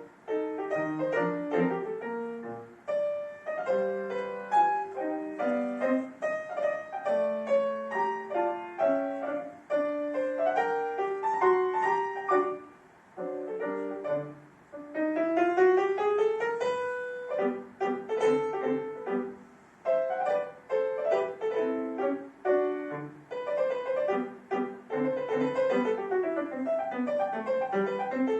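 Solo piano playing quick passagework, with a fast rising scale about halfway through and short breaks between phrases.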